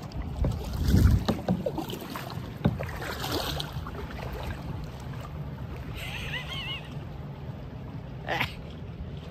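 Kayak paddling on the sea: paddle strokes splashing in the water and knocking against the boat, with wind on the microphone. A short high warbling sound about six seconds in.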